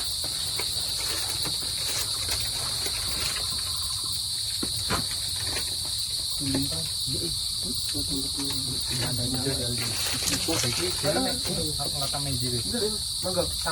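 Forest insects droning steadily in a high, even whine, with faint voices talking underneath.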